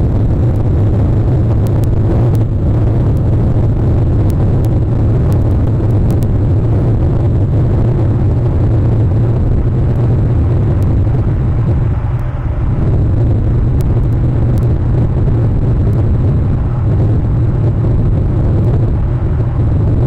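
A loud, steady low rumble with faint scattered clicks, unchanging apart from a brief dip about twelve seconds in.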